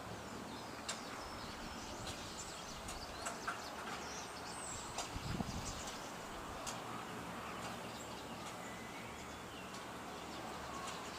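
Small birds chirping in scattered short calls over a steady outdoor background hiss, with a few light clicks and a brief low thump about five seconds in.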